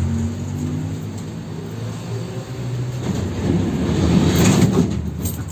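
71-608KM tram running along the track, heard from inside: a steady low hum from the motors, then a louder rumble and rattle of the wheels on the rails between about three and five seconds in. The route's rails are badly worn.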